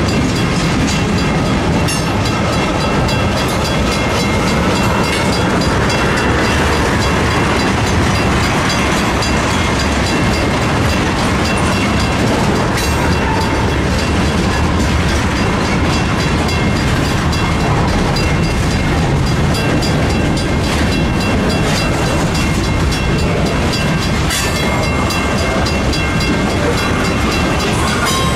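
Freight train's tank cars and covered hopper cars rolling past close by: a loud, steady rumble of steel wheels on rail, with scattered clicks as the wheels cross rail joints.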